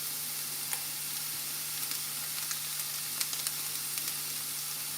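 Chicken breast slices and onions sizzling in oil in a frying pan: a steady hiss with scattered small crackles.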